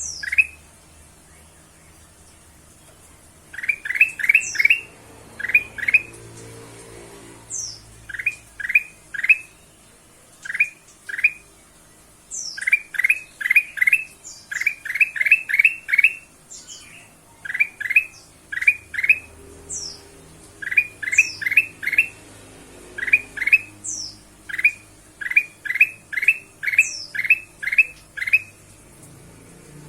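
Kutilang emas, a bulbul, calling: quick runs of two to seven short rising notes, with now and then a higher falling note, and brief pauses between the runs.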